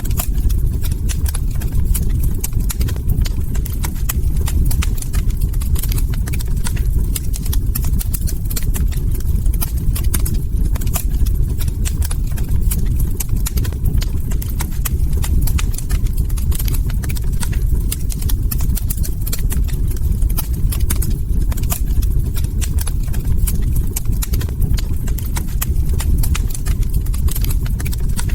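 Log fire crackling: a dense run of small pops and snaps over a steady low rumble.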